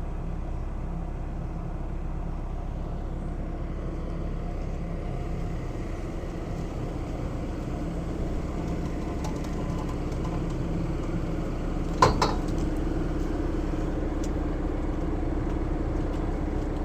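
Tractor's diesel engine running steadily, with a single sharp metallic clank about twelve seconds in.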